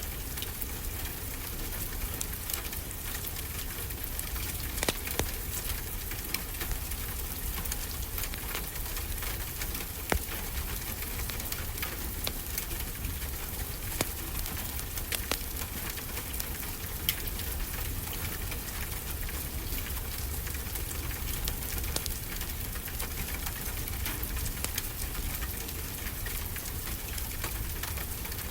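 Steady rain with a wood fire crackling: an even hiss with scattered sharp pops.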